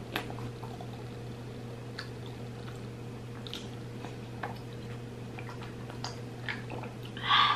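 A person chewing food close to the microphone: faint, scattered wet mouth clicks and smacks over a steady low electrical hum, with a brief louder noise near the end.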